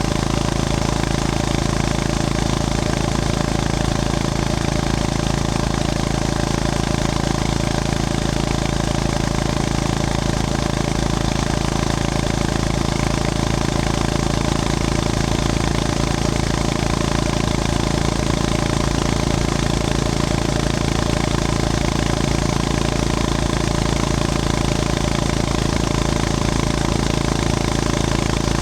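Honda GB350S motorcycle's air-cooled single-cylinder engine running steadily, its pitch holding level with no revving up or down.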